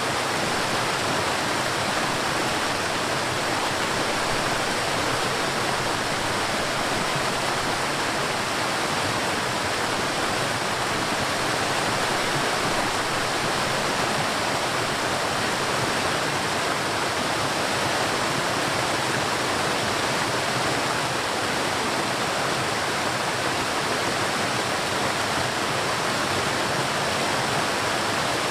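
River water flowing and rushing, a steady, even rush with no breaks.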